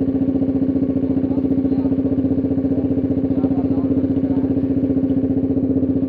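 Bajaj Dominar 250's single-cylinder engine idling steadily with its exhaust silencer removed, giving a loud, rapid, even popping from the open exhaust.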